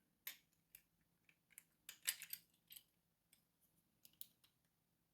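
Faint, scattered metallic clicks of lock-picking tools working in a lock, with a short cluster of clicks about two seconds in.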